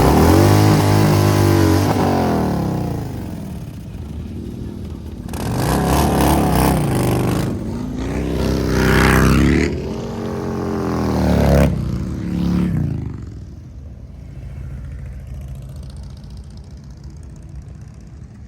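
Harley-Davidson V-twin motorcycle engines revving, in several loud bursts that rise and fall in pitch over the first thirteen seconds, then settling to a quieter, steadier engine sound.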